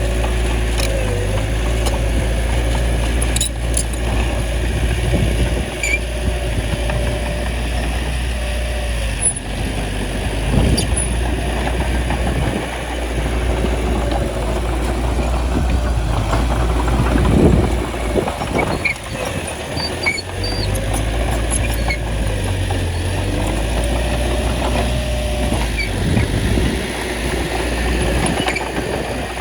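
Small bulldozer's diesel engine running steadily as it pushes soil, briefly louder about two-thirds of the way through.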